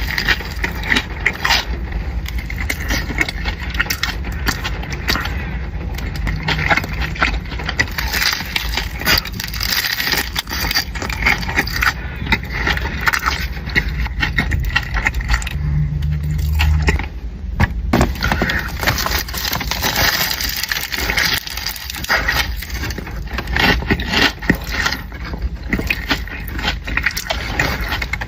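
Close-miked eating of a Korean corn dog: crisp crackling crunches of the fried batter crust and wet chewing, with many small clicks.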